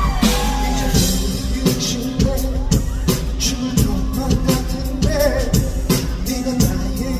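Live concert music: a singer's voice over a band or backing track with a steady drum beat and bass, echoing in a large hall.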